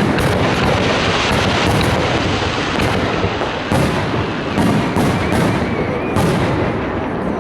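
Fireworks display: shells bursting in quick succession, a steady barrage of bangs over a continuous roar and crackle.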